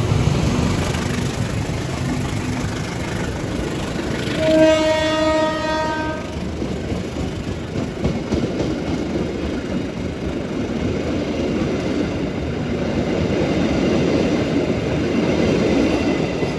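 Train horn sounds one blast of about a second and a half, about four and a half seconds in, over the rumble and wheel noise of a train growing louder toward the end.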